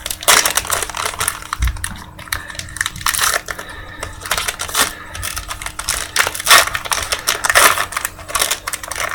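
A trading-card pack wrapper being torn open and crinkled, and the cards inside handled, giving an uneven run of sharp crackles and rustles.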